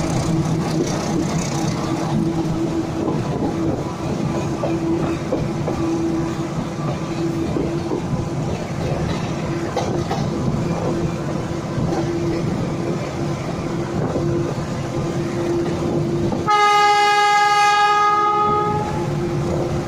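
Moving train heard from an open coach door: steady running noise and rail rumble. About three-quarters of the way in, a loud train horn sounds for about two and a half seconds.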